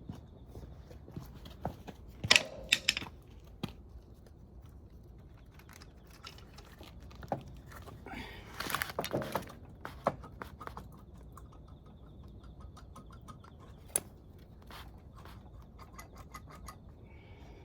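Scattered clinks and knocks of metal tools and engine parts being handled during a motorcycle engine teardown, with a short cluster of louder knocks about two seconds in and a longer scraping rustle around eight to nine seconds in.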